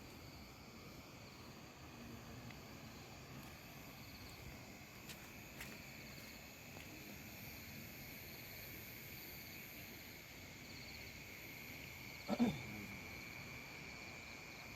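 Steady faint chirring of night insects, with one short, louder animal call about twelve seconds in.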